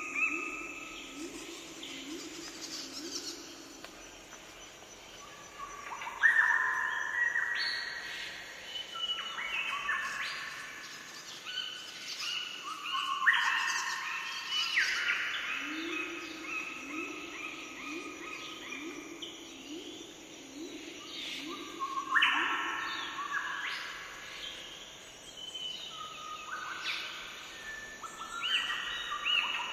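Several birds singing over one another in chirping, warbling phrases. Twice, a low hooting call repeats about two notes a second for several seconds.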